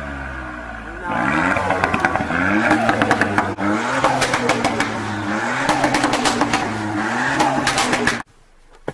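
Ford Fiesta ST Mk8's 1.5-litre three-cylinder turbo engine revved repeatedly through a Milltek valved cat-back exhaust, the revs rising sharply and falling again several times, with pops and bangs crackling between the revs; really loud. It cuts off suddenly near the end.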